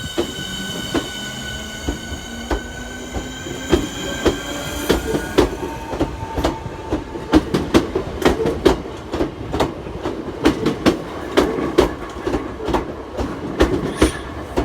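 Class 465 Networker electric multiple unit moving through the station. A steady electric whine with several tones, one rising gently, fades out about five seconds in. Through the rest, the wheels click and clack over rail joints, the clicks coming thicker and louder.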